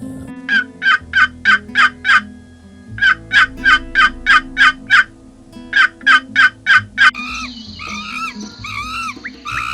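A fowl calling in three runs of sharp, repeated notes, about three a second, then a different higher call with arching notes in the last couple of seconds.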